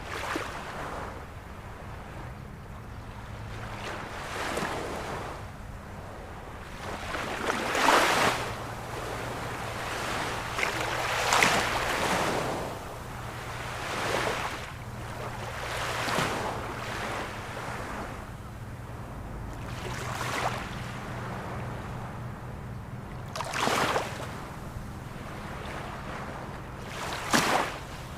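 Ocean waves breaking and washing in, one surge every three to four seconds, the strongest about eight and eleven seconds in and twice near the end. A faint steady low hum runs underneath.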